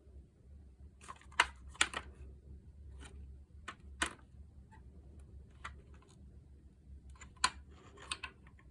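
Scattered sharp clicks and clinks of small parts and tools being handled during disassembly, a handful of separate knocks with the loudest near the start and near the end, over a faint low hum.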